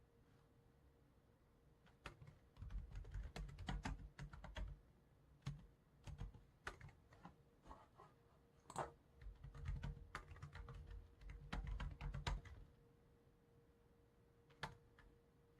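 Computer keyboard typing in quick runs of keystrokes with short pauses, starting about two seconds in and stopping about three seconds before the end, then a single click near the end.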